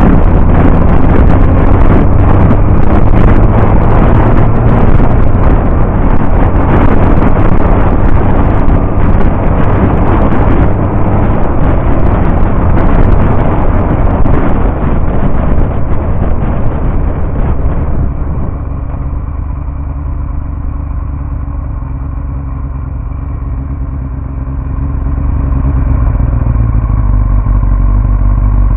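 Yamaha R1 inline-four engine heard from a bike-mounted camera while riding, with wind buffeting the microphone. About 18 seconds in the wind noise drops away and the engine is heard running steadily at low speed, growing louder again near the end.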